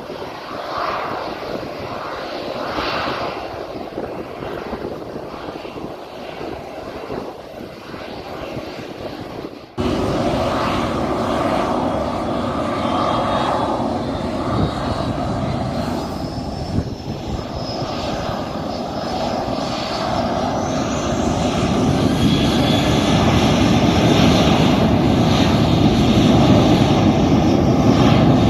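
Jet airliner engines running, in two takes joined by a sudden cut about ten seconds in. In the second take the noise grows steadily louder and a high whine rises in pitch.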